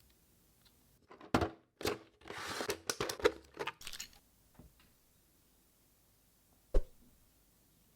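Action figure packaging being handled and opened: plastic and cardboard crinkling and tearing amid a quick run of clicks, then a single sharp tap near the end.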